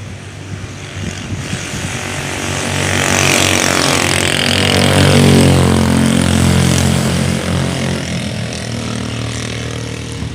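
A motor vehicle passing by: its engine and tyre noise grow louder to a peak about five seconds in, then fade away.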